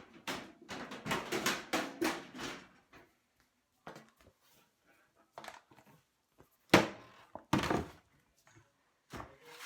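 Metal baking pans and cookware clattering and knocking as a baking pan is searched out: a quick run of clatters in the first few seconds, then two loud knocks about seven seconds in.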